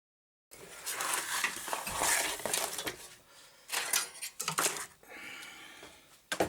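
Hard objects being handled and set down on a bench: irregular clattering, rustling and clicks, with a sharp click near the end. It starts abruptly after a moment of silence.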